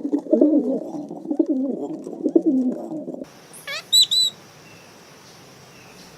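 Pigeon cooing in low, warbling phrases. About three seconds in it gives way to a steady hiss with three short, high bird chirps.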